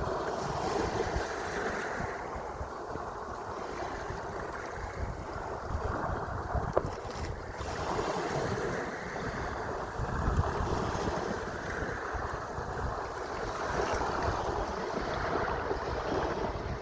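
Sea waves washing, surging and easing every few seconds, with wind buffeting the microphone.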